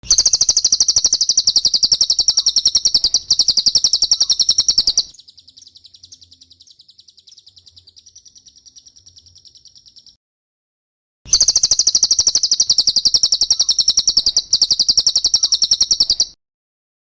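A cililin singing a rapid, high-pitched trill of quickly repeated notes. It is loud at first, runs on more quietly for about five seconds, pauses for about a second, then comes back loud.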